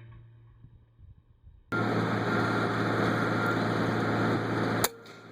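A loud, steady rushing noise with a low hum starts suddenly about a second and a half in, then a single sharp crack of a .177 air rifle shot near the end. The shot misses.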